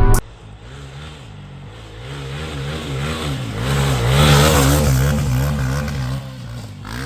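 Dirt bike engine running with the revs rising and falling, growing louder to a peak about four seconds in, then dropping away.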